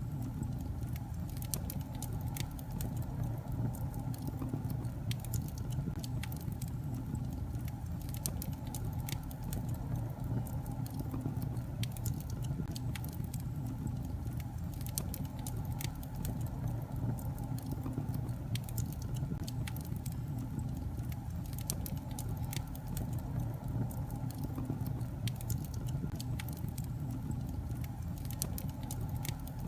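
Wood fire burning in a fireplace, with a steady low rumble and frequent irregular crackles and pops from the logs.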